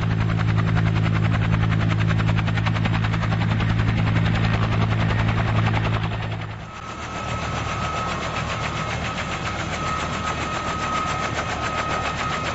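An engine running steadily with a rapid, even pulse and a strong low hum. About halfway through the low hum drops away and a steady high whine comes in over the pulsing.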